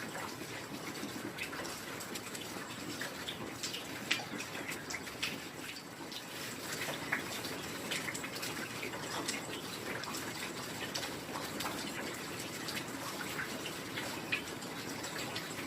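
Heavy rain falling steadily: a dense hiss of rainfall dotted with many sharp, close drop impacts, a few of them louder about 4, 7 and 14 seconds in.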